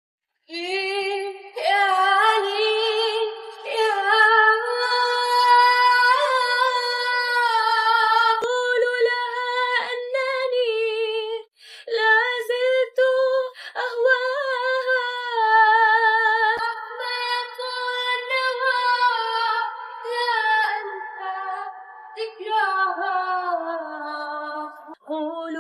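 A woman singing an Arabic song unaccompanied, with long held notes and a marked vibrato. There is a brief break about halfway through.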